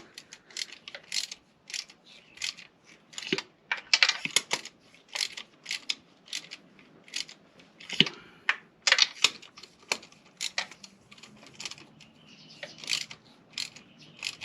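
Irregular sharp clicks and metal clinks coming in clusters, as small metal objects are handled.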